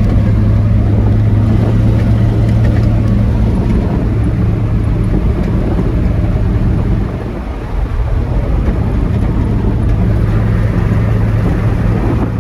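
1973 Chevy K20 pickup truck driving, its engine running as a steady low drone; it eases briefly about seven and a half seconds in, then picks back up.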